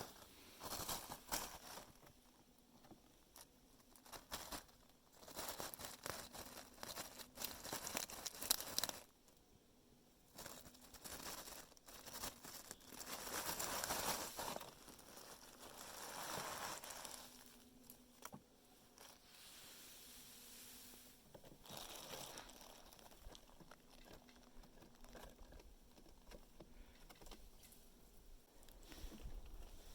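Red squirrel gnawing and cracking peanut shells: irregular bursts of crunching and crackling with short quiet gaps between them.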